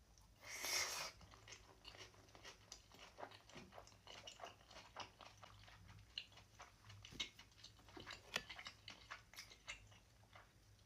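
Close-miked chewing of a mouthful of chicken, noodles and radish, with many small, irregular wet mouth clicks. A louder, noisy bite comes about half a second in.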